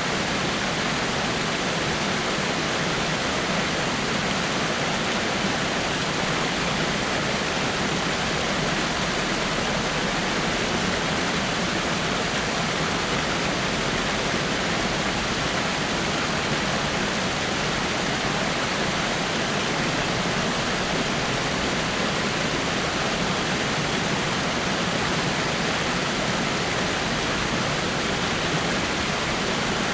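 Water falling over rocks in a small rock waterfall: a steady, unbroken rush with no changes.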